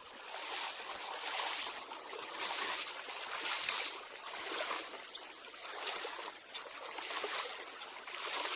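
Running water of a trout stream: a steady rushing and splashing that surges unevenly, with a few sharp clicks.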